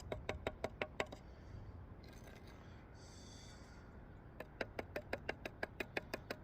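Rapid, even taps, about six a second, of a brick trowel knocking a brick down into its mortar bed to level it. The tapping stops after about a second and starts again about four and a half seconds in, with a brief hiss in the pause.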